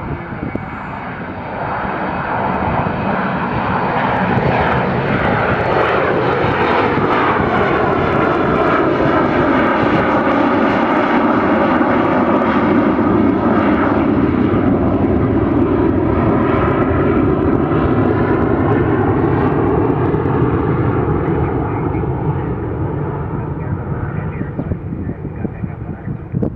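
Aircraft engines roaring as a plane passes by, swelling over the first few seconds, staying loud with tones sweeping slowly up and down, then fading near the end.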